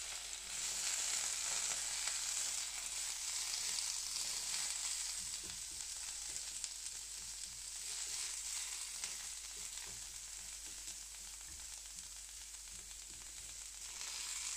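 Food frying on a hot carbon steel griddle on a stovetop: a steady sizzle with fine scattered crackles, easing somewhat in the second half.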